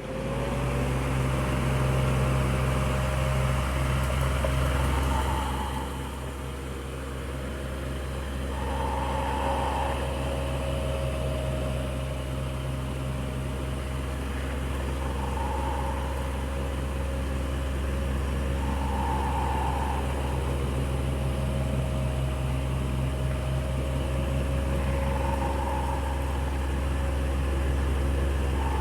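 Electric fan running steadily: a low motor hum with a steady whir of air, the motor's tone rising slightly in pitch in the first second as it comes up to speed. A faint higher tone comes and goes every three to four seconds.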